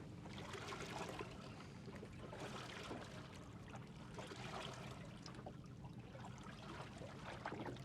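Faint water trickling and lapping against a small aluminum boat's hull during slow trolling, with many small irregular ticks and a steady low hum underneath.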